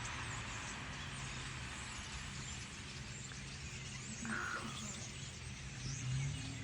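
Dense chorus of a huge flock of birds calling all at once, a continuous chatter of many overlapping chirps.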